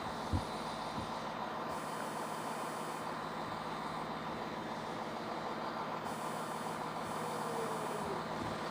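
Steady railway station rumble under a constant electrical buzz from a faulty microphone, with one short thump about a third of a second in.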